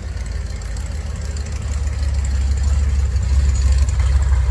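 A car engine rumbling at low speed as a car rolls in. It grows louder from about two seconds in as the car comes closer.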